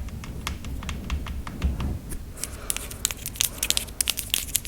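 Close-miked ASMR hand trigger sounds for a coconut-crack game: a run of crisp, irregular small clicks and crinkles, sparse at first and much denser about halfway through, with a few soft low thuds early on.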